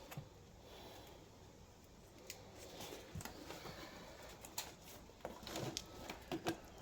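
Faint rustling and scattered small clicks from a sheet of self-adhesive sound-deadening material being handled and worked into place. It is nearly quiet for the first two seconds, and the clicks come more often in the second half.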